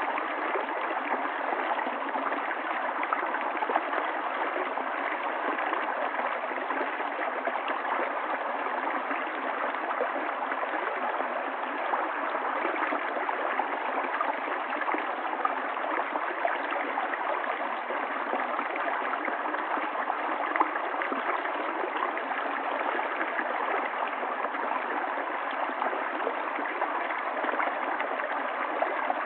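River water flowing and babbling over stones, a steady rush with small splashes and gurgles throughout.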